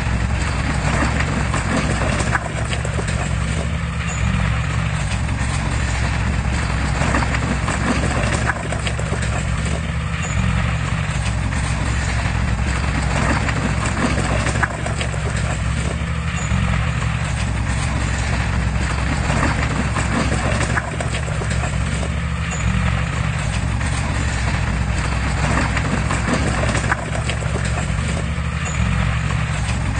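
Heavy diesel earthmoving machinery running steadily, with a continuous clanking clatter over the engine.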